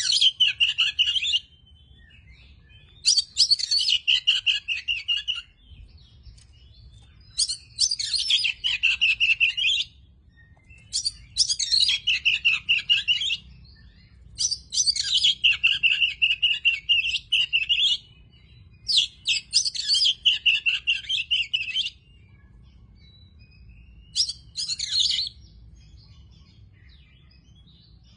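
Oriental magpie-robin (kacer) singing in phrases of two to four seconds with short pauses between them, about seven phrases in all. Each phrase opens with quick high notes and runs into a lower warbled trill.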